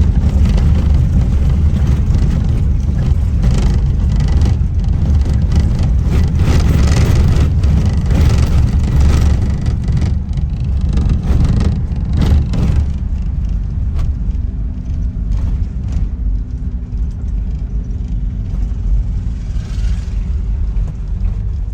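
Safari vehicle driving on a rough track: a heavy low rumble of engine and tyres with rattling. About thirteen seconds in it drops to a quieter, steadier hum.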